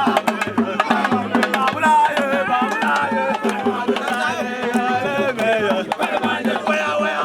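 Drums played in a fast, dense rhythm under several voices singing together.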